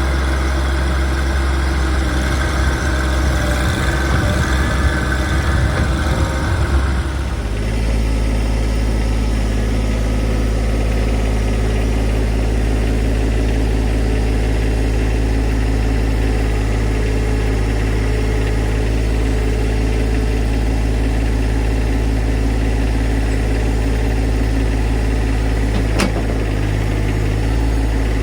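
John Deere 2025R compact tractor's three-cylinder diesel engine running. For the first seven seconds or so the sound is rougher and busier, then it changes abruptly to a steady, even hum.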